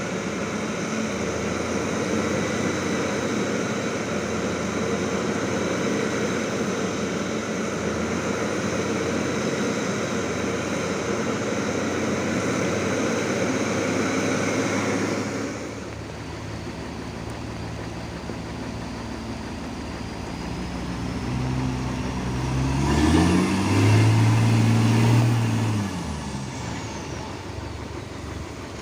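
Truck engine running, with a lot of noise in the first half. It changes suddenly about halfway to a steadier engine note, which revs up and back down a few seconds before the end.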